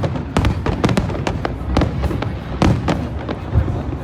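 Fireworks going off in quick, irregular succession, sharp bangs and crackles several a second over a continuous low rumble.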